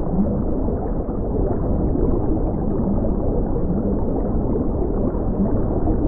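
Underwater sound: a steady, dense rumble and crackle of water, with faint short low blips scattered through it.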